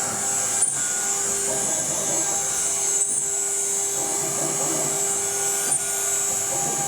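CNC router spindle running with the bit cutting a relief in a single finish pass at slow feed, the stepper motors moving the gantry. The cut is rough and heavy because no roughing pass was made first. A steady high whine with a lower hum, dipping briefly about every two and a half seconds.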